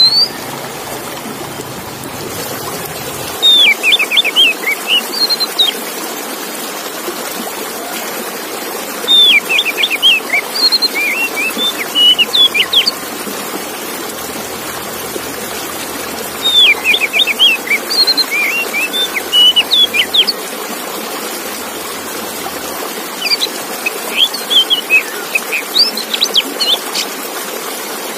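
Male oriental magpie-robin (kacer) singing in four bouts of quick, sweeping high chirps and whistles, each bout a few seconds long with pauses between. A steady hiss runs under the song.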